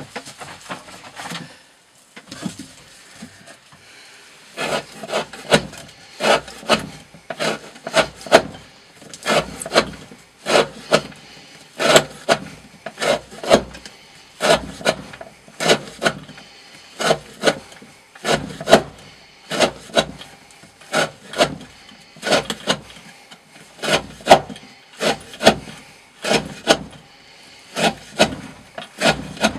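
A D2-steel knife blade drawn in repeated slicing strokes through thick rope against a wooden board, about three cuts every two seconds. Each stroke is a short rasping rub.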